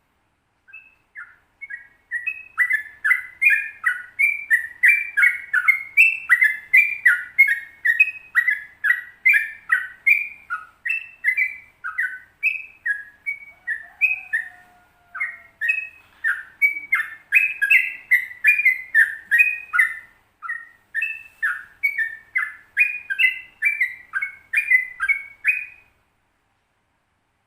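Yellow-vented bulbul (trucukan) singing a long 'ropel' song: a fast, unbroken string of short chattering notes, about three a second, with a brief pause about halfway through, stopping a second or so before the end.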